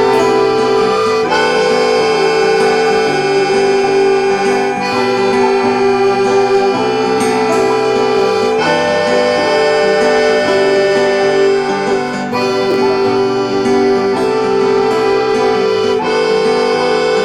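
Instrumental passage of an indie-folk song: a free-reed instrument holds long chords over the band's accompaniment.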